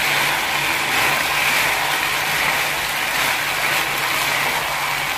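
Macaroni, fried chicken and vegetable sauce sizzling in a hot non-stick pan while being stirred with a silicone spatula: a steady hiss.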